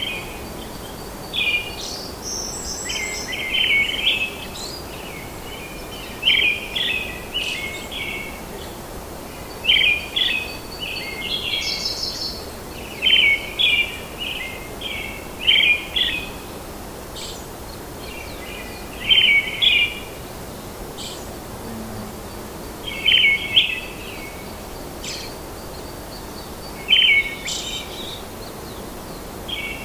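A songbird repeating short phrases of rapid chirps every few seconds over a steady background hiss.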